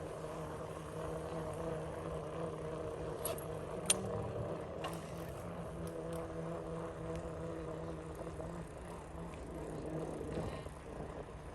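Tour bus engine idling with a steady hum, and a couple of sharp clicks about four seconds in.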